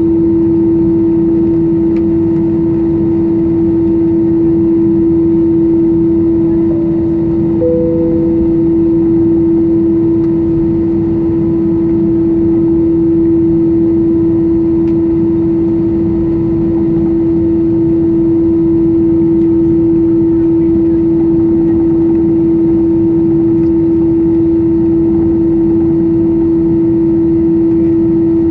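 Cabin noise inside an Airbus A320-214 on the ground: its CFM56 engines running with a steady hum and a strong constant tone. A brief higher tone sounds about eight seconds in and fades within a second.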